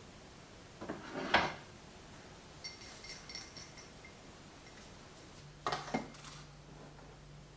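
Crockery and cutlery clattering and clinking while coffee is made: a sharp knock about a second in, then a run of small ringing clinks like a spoon against a cup. A low steady hum starts about five and a half seconds in, with more clatter on top.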